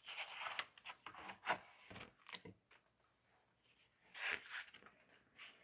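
Faint rustling and scraping of paper as picture book pages are handled and turned, in two spells about four seconds apart, with a few sharp ticks.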